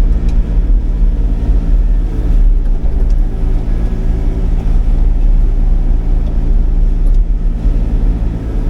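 Sany 35 mini excavator's diesel engine running steadily under load, a constant low hum, while it powers a hydraulic mulching head through grass and brush.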